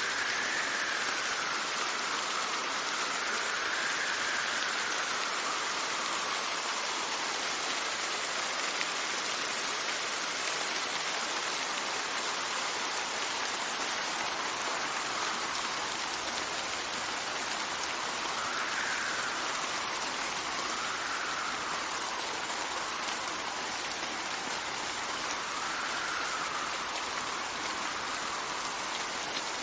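Steady heavy rain hissing, with wind gusting through it: a faint whistle swells and rises and falls in pitch every few seconds.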